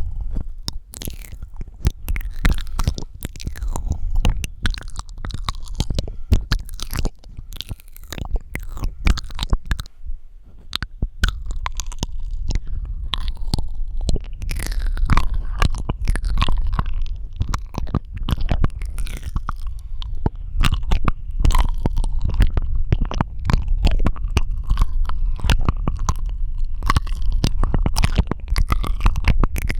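Close-miked ASMR mouth sounds: rapid wet clicks, smacks and sticky saliva sounds in a dense, continuous stream, with a heavy low rumble underneath.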